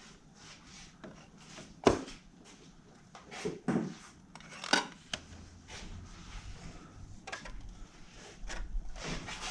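Scattered clinks and knocks of tools and parts being handled during work under a car, with the sharpest knocks about two seconds and five seconds in, and light rubbing and shuffling between.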